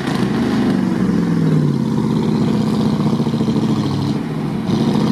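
Off-road 4x4's engine revving hard at full throttle under heavy load, its revs sagging about a second and a half in as the vehicle struggles. Near the end the revs drop briefly and then climb again.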